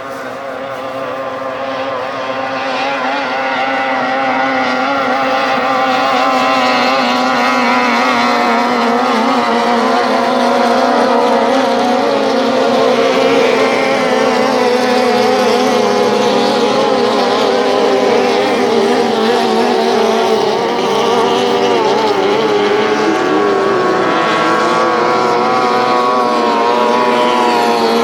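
Outboard engines of racing tunnel boats running at high revs, their wavering engine notes overlapping. The sound grows louder over the first few seconds, then holds steady.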